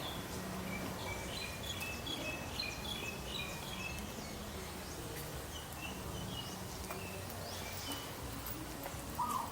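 Birds chirping in runs of short, quick high notes over a steady background of outdoor noise.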